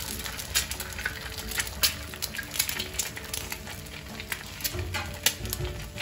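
An egg and cumin seeds frying in hot oil in a pan, sizzling with a constant scatter of sharp pops and crackles.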